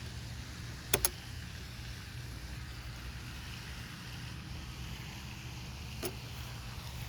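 Parts of a folding e-bike's aluminium frame clicking as it is folded: a quick double click about a second in and a single click near the end, over a steady low rumble.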